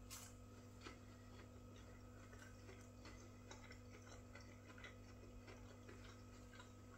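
Near silence: faint, irregular soft clicks of chewing a mouthful of breaded fish finger, over a steady low hum of room tone.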